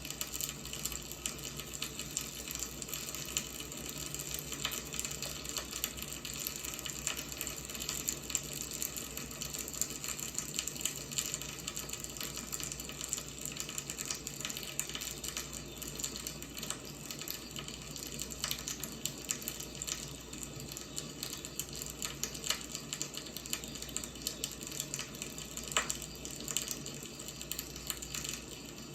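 Firewood burning: steady crackling with frequent small pops over a continuous hiss.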